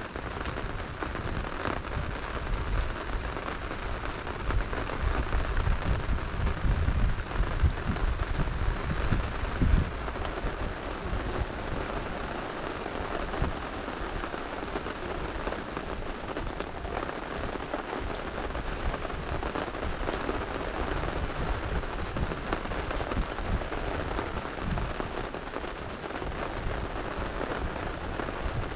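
Steady rain falling, with faint crackles of a campfire scattered through it. A low rumble swells for several seconds near the start, then eases.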